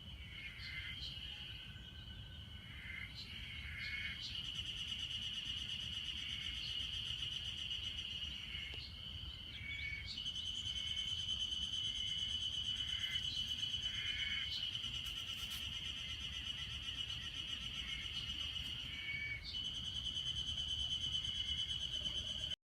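A chorus of Ezo haruzemi cicadas (Terpnosia nigricosta) calling: a steady high-pitched buzz with shorter repeated calls layered over it. It cuts off abruptly near the end.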